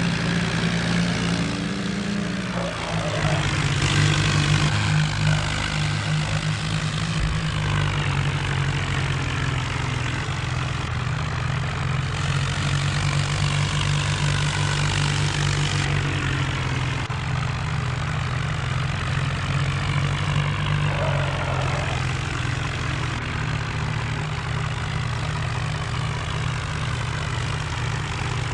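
Tractor's diesel engine running steadily, slightly louder about four seconds in.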